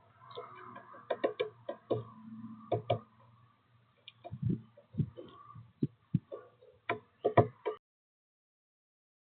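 Woodpecker pecking at sunflower seeds on a feeder: irregular sharp taps, some in quick clusters, over a faint low hum. The sound cuts off abruptly near the end.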